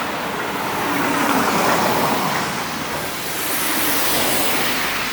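Road traffic: cars passing on the street, their tyre and engine noise swelling twice as vehicles go by.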